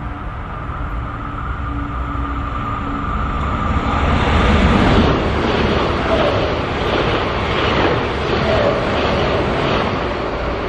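SBB RABDe 500 ICN electric tilting train approaching with a steady whine, then passing close by: the rumble of wheels on rails swells about four seconds in, with a regular series of wheel clacks as its cars go by.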